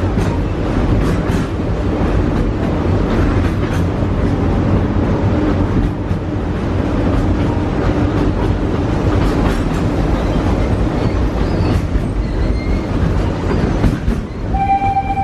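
Train carriage running along the track, a steady rumble with wheel clatter and clicks. A steady whistle-like tone starts near the end.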